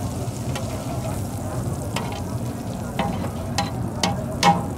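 Cubes of bull liver sizzling in oil on a large flat metal pan, while a metal spatula scrapes and stirs them. The spatula clacks against the pan about five times in the second half, loudest near the end.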